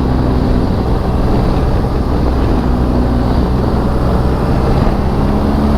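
BMW R1200 GS boxer-twin motorcycle engine running steadily at cruising speed, heard with wind rush over the rider's microphone; the engine note rises slightly near the end.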